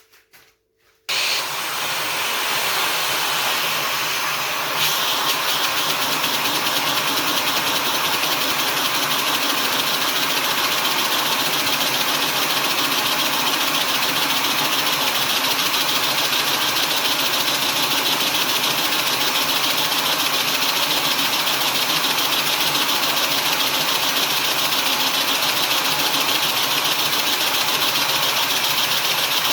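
A vacuum cleaner switches on about a second in and runs steadily, drawing air through a 3D-printed inline-four vacuum engine, which clatters rapidly as it runs; the sound grows a little louder about five seconds in and stops suddenly at the end. The builder finds the engine weaker than he expected and blames an intake too small for it.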